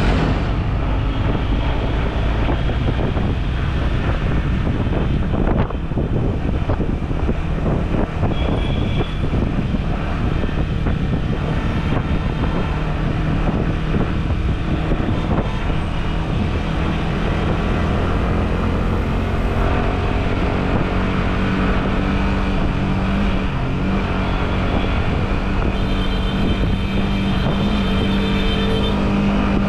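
Riding a Yamaha R15 V4's 155 cc single-cylinder engine through city traffic: steady engine and road noise with wind on the helmet microphone. A vehicle horn sounds briefly about eight seconds in and again for a few seconds near the end.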